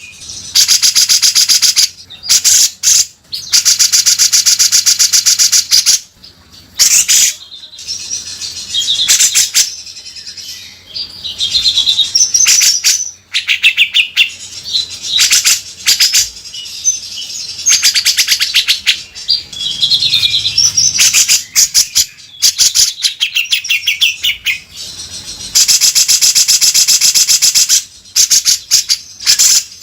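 A cucak jenggot (grey-cheeked bulbul) singing loudly. Long, harsh, buzzing rattles, the rough 'beset' call, alternate with short, clear, whistled chirps. The longest rattles come near the start and near the end.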